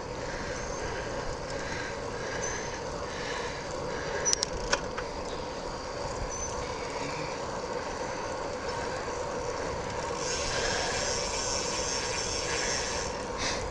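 Ride noise from a Specialized Sirrus X bike on a wet paved trail: tyres hissing on wet pavement with wind on the microphone. There are two brief clicks about four seconds in, and the hiss grows brighter and louder for a few seconds about ten seconds in.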